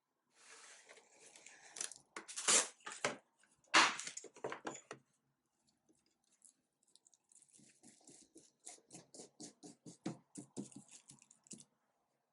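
Dry scratching and rubbing strokes on a surface. A dense flurry comes first, with a few louder strokes, then it pauses. From about eight seconds in comes a run of quick, even strokes, about five a second.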